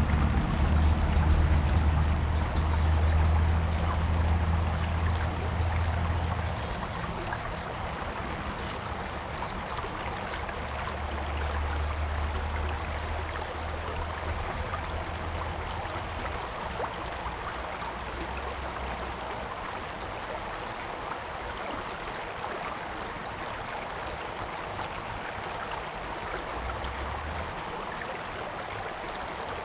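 Mountain stream flowing over rocks: a steady rush of water. A low rumble sits under it for the first six seconds or so and comes back from about ten to sixteen seconds in.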